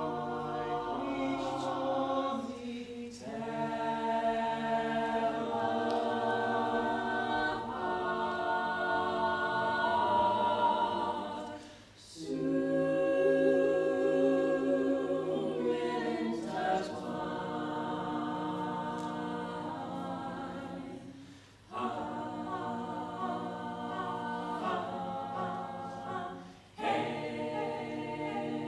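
Choir singing a cappella in sustained chords, in long phrases separated by brief pauses for breath.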